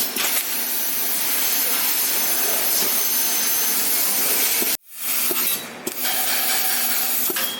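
Fiber laser cutting machine cutting steel plate: a steady, loud hiss of the assist-gas jet at the cutting head. The hiss cuts out abruptly a little under five seconds in and builds back up within about half a second.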